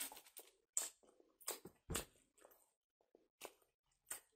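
Someone biting into and chewing a kebab sandwich, heard close up: a string of short, separate mouth sounds, the loudest about one and two seconds in.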